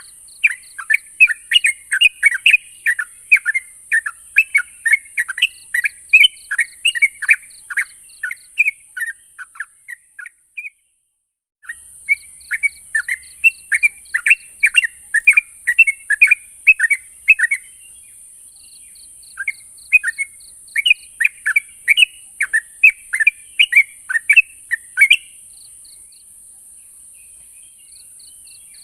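Yellow-vented bulbul (trucuk) singing: fast runs of short, sharp chattering notes, about four a second, broken by a sudden cut-out about ten seconds in and a short pause later, and stopping a few seconds before the end. A steady high hiss lies under it.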